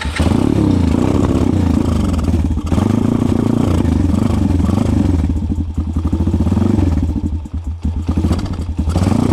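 140cc pit bike's single-cylinder engine running unevenly just after being started, its speed wavering up and down with brief dips a few times as it stumbles. This is a hard-starting engine that seems short of something.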